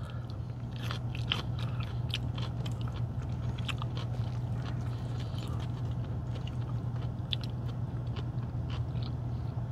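Close-up eating sounds: crisp crunching and chewing of a bite of fresh cucumber, a run of small irregular crunches, over a steady low hum.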